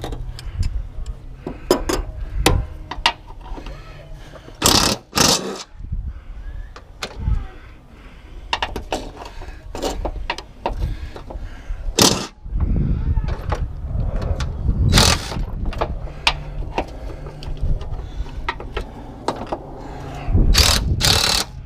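Irregular metal knocks and clanks as tools work on a seized mower deck spindle, with a few much harder strikes scattered through.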